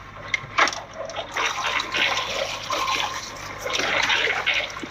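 Seawater splashing and pouring off a fishing net full of fish as it is worked at the side of a boat, with a few sharp knocks. A steady low hum from the boat's engine runs underneath.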